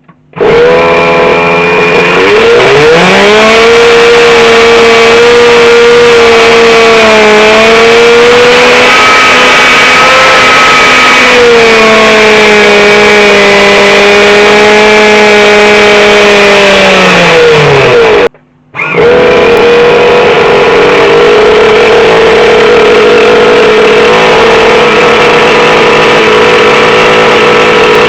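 Small two-stroke nitro glow engine of a radio-controlled car running loudly at high revs with a steady high buzz. The revs climb about two seconds in, hold, and fall away near the middle. The sound cuts out abruptly for a moment, then the engine is heard running again at speed.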